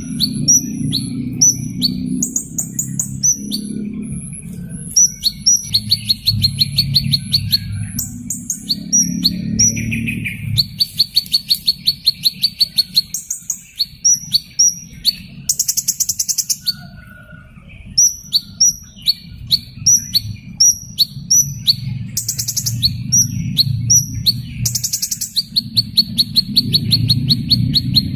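Hummingbird calls: rapid high, sharp chips repeated again and again, broken by several buzzy trills about two seconds long. A low, steady hum runs underneath and fades for a few seconds in the middle.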